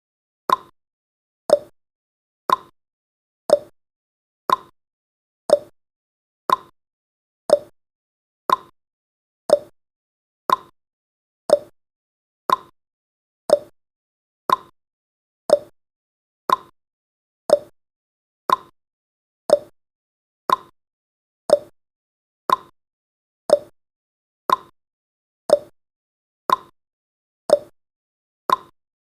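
Countdown timer's tick sound effect: a short pop once every second, evenly spaced.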